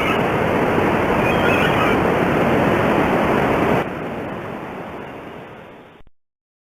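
A steady, loud rushing noise that drops in level about four seconds in, then fades and stops just after six seconds.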